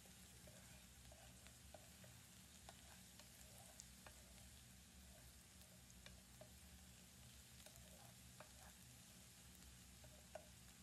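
Faint sizzling of food frying in a pan, with scattered small clicks and pops throughout.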